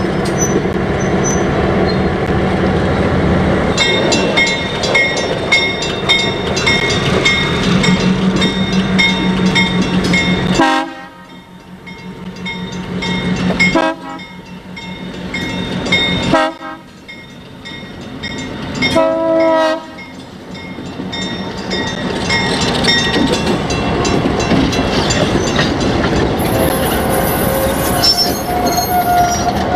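A train running past, with wheels clicking rhythmically over rail joints and steady rumbling. A few short horn blasts sound in the middle, where the sound drops away abruptly several times.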